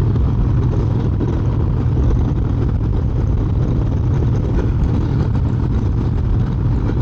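Harley-Davidson Heritage Softail's V-twin engine running steadily on the move, heard from the bike with wind noise over it.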